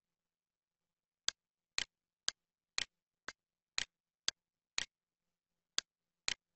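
Sharp clicks, evenly spaced about two a second, ten in all with one beat skipped near the end and dead silence between them.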